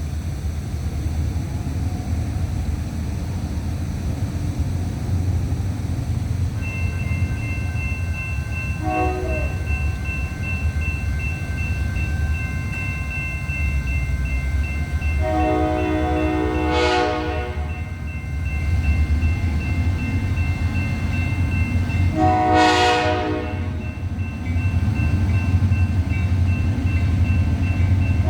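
Diesel freight locomotive sounding its multi-note air horn over a steady low engine rumble. There is a short blast about nine seconds in, longer blasts around sixteen and twenty-three seconds, and another that starts near the end.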